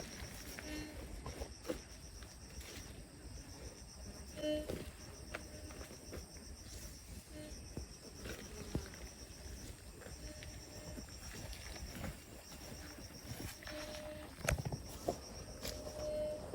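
Insects trilling in high, rapid pulses that start and stop, over a low background rumble, with scattered sharp clicks and knocks. The loudest knocks come about four and a half seconds in and near the end.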